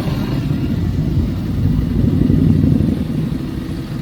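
A vintage motorcycle engine running with a fast, low pulsing beat, growing louder for a moment about two seconds in and then settling back.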